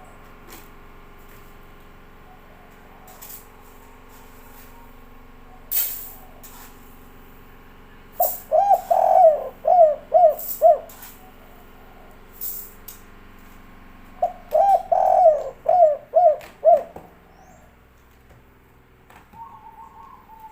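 Spotted dove (tekukur) singing its 'kuk 3' cooing song: two phrases of about six quick coos each, about eight and fourteen seconds in. Sharp clicks fall between the phrases, and a fainter coo comes near the end.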